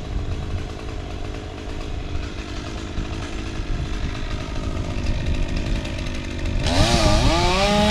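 Chainsaw running steadily at a moderate level, then revved hard about six and a half seconds in, its pitch swinging up and down as it works through the trunk on the felling cut.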